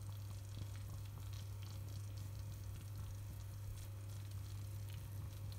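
Faint sizzling of kuymak, cornmeal and melted cheese cooking in butter in a pot, with a steady low hum beneath it.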